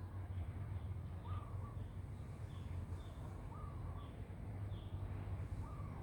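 Faint animal calls: a few brief falling chirps, and three slightly longer calls about two seconds apart, over a steady low hum.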